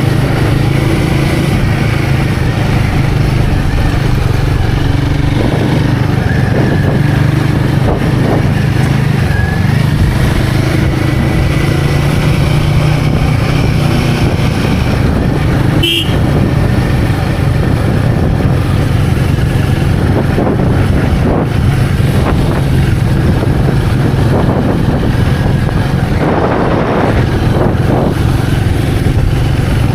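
Royal Enfield Guerrilla 450's single-cylinder engine running steadily under way, with a brief high-pitched beep about halfway through.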